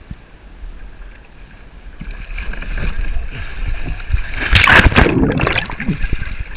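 Water sloshing around a kayak that grows louder, then a loud splash about four and a half seconds in as someone falls off the kayak into the water.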